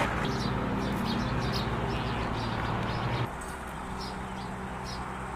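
Small birds chirping, short high chirps repeating several times a second, over a low steady hum that stops abruptly about three seconds in.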